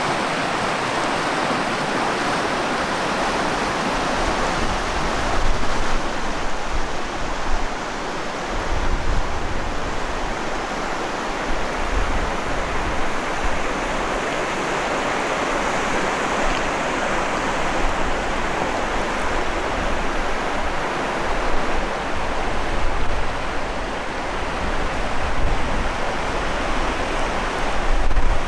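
River water rushing steadily, with a low rumble coming and going underneath.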